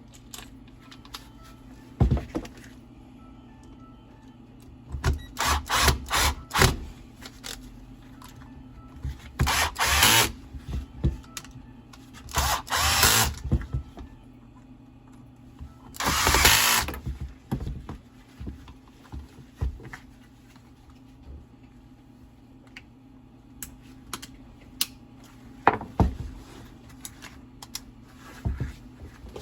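Power screwdriver run in short bursts of about a second, three times, driving in the gear-housing screws of an angle grinder, between sharp knocks and clicks of the housing parts being seated.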